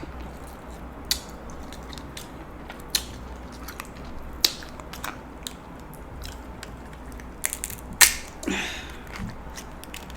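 Steamed king crab shell cracking and snapping in irregular sharp clicks as it is pried and bent open by hand. The loudest crack comes a little past eight seconds in, followed by a short rustle.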